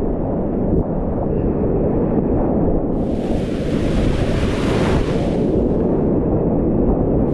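Whitewater rapids rushing loudly and steadily. About three seconds in, a brighter hiss of splashing water joins for a few seconds, then drops away again.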